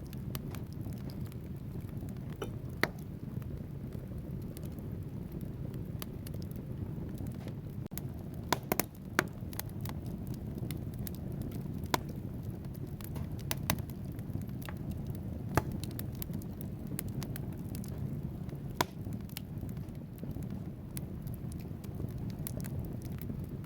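Wood fire burning in a fireplace: a steady low rush of flames with scattered sharp crackles and pops from the logs, a few of them loud.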